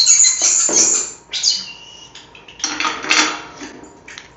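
Rocks clinking and clattering as they are set into a bird-bath fountain, a burst in the first second and another about three seconds in, with pet European starlings calling in between.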